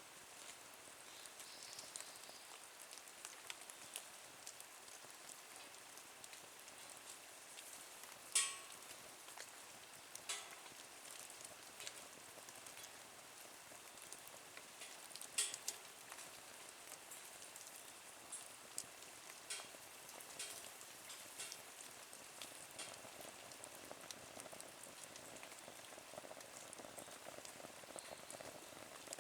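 Wood fire crackling in a small nature stove (twig stove): a soft steady hiss with scattered snaps and ticks, and two sharper pops about eight and fifteen seconds in.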